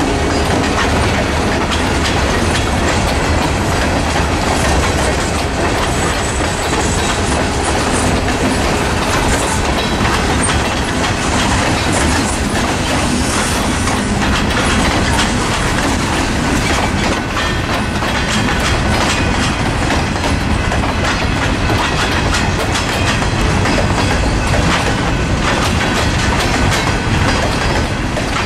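CPKC freight train's cars rolling past at close range: a loud, steady rumble and clatter of steel wheels on the rails, with a continual run of clicks and some wheel squeal.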